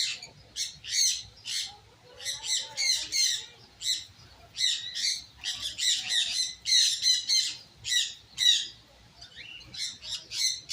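A flock of caged birds calling over one another with short, high, chirping squawks, two or three a second, in clusters with brief pauses.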